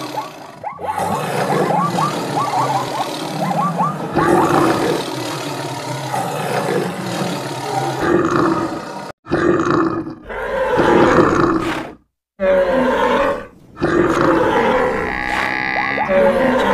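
Sound effects of many animals calling over each other, roars and grunts among them, with quick repeated short chirps in the first few seconds. The sound cuts out briefly twice in the middle.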